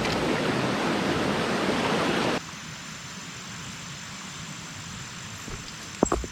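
Steady rushing noise of flowing water that cuts off suddenly about two and a half seconds in, leaving quieter evening bush ambience with a steady high insect drone. A few sharp knocks come near the end.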